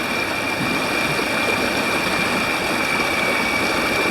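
Steady rush of fast-flowing, swollen floodwater, an even wash of noise, with a thin steady high-pitched tone running through it.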